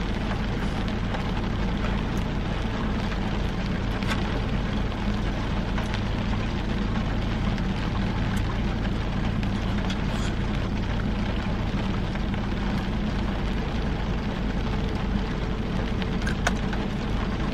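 Heavy rain on a parked car's roof and windows, heard from inside the cabin as a steady hiss, with a steady low hum from the car beneath it.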